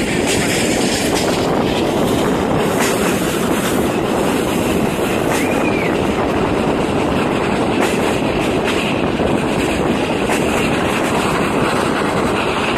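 Passenger train coaches running on the track, heard from inside a carriage at the window: a steady rolling rumble and rush of wheels on rails, with occasional clicks over rail joints. A brief faint wheel squeal comes on the curve about five seconds in.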